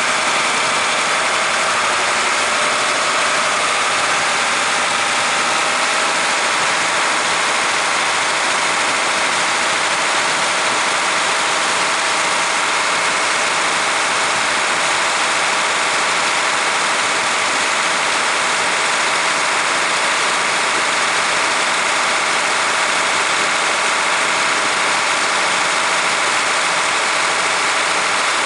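A 1977 International fire engine's engine running steadily with its fire pump engaged and making water.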